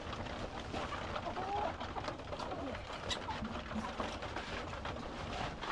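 Flock of caged laying hens clucking, with scattered short calls over a background of rustling.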